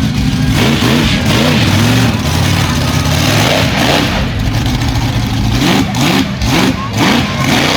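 Monster truck engine revving hard, its pitch rising and falling again and again, with several quick blips of the throttle near the end.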